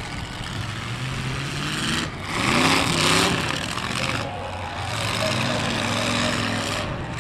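Demolition derby car engines running and revving, their pitch rising and falling as the cars maneuver, with a louder rush of noise about two seconds in that lasts a couple of seconds.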